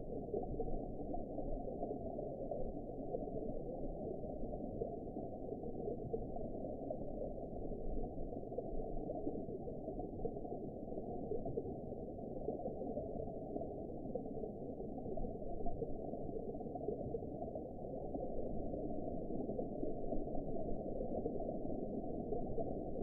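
Underwater ambience: a steady, muffled water noise, low and dull, with nothing high-pitched in it.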